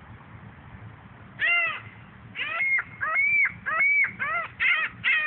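Seagulls calling: one call about a second and a half in, then a run of repeated calls, the first few drawn out and the rest quicker and shorter.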